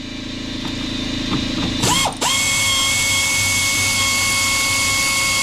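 Cordless power tool motor: a brief trigger blip about two seconds in, then a steady high whine at full speed held for several seconds, over a low hum.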